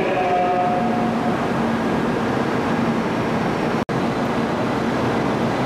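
Shinkansen train moving slowly along a station platform: a steady rumble with a humming motor tone in the first second or so. The sound drops out for an instant about four seconds in, then the same steady train noise carries on.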